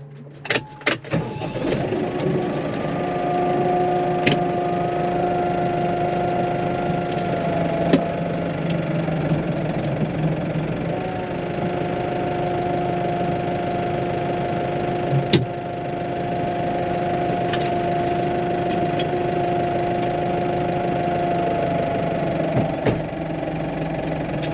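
Tractor engine starting up about a second in and then running steadily, with a few sharp clunks along the way.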